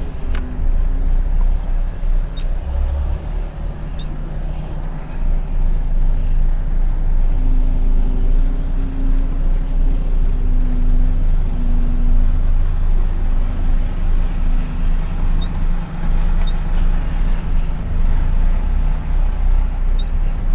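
Diesel truck engine running at low speed while the truck is manoeuvred into a parking spot, a steady low rumble heard from inside the cab that grows a little louder about five seconds in.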